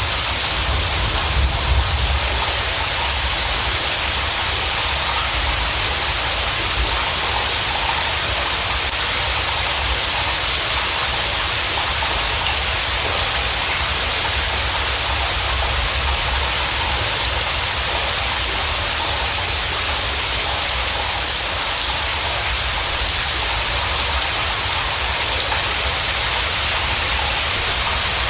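Steady rain falling: an even, unbroken hiss over a low rumble.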